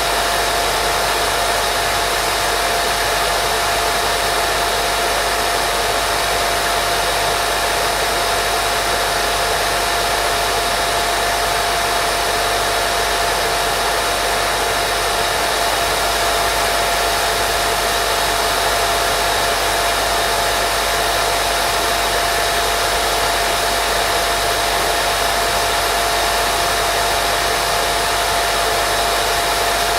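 Steady white noise for baby sleep: an unbroken, even hiss with a constant mid-pitched whine running through it.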